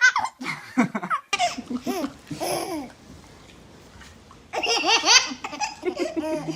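High-pitched laughter in repeated bursts, with a short lull near the middle before it picks up again.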